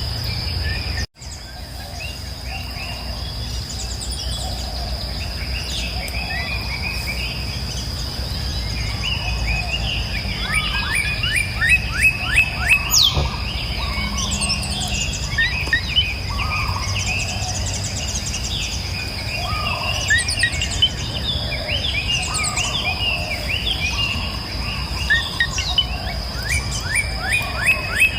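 Several songbirds chirping and singing, with rapid falling trills, over a steady high insect drone and a low steady rushing background. The whole sound cuts out for an instant about a second in.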